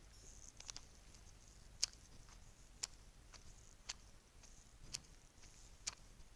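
Bracelets clicking in soft, sharp clicks about once a second, with a few lighter clicks near the start.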